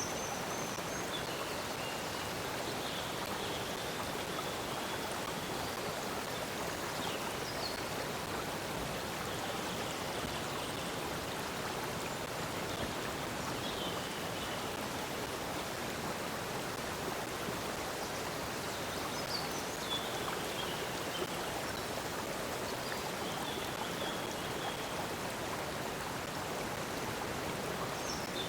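Stream water flowing steadily, with brief high chirps, bird calls, now and then.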